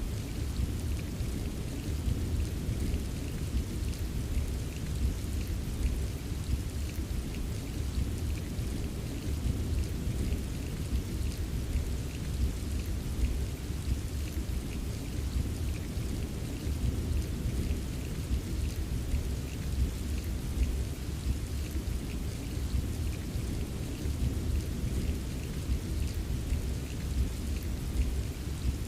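Steady rain with a dense patter of fine drops, over a continuous low rolling rumble of gentle thunder.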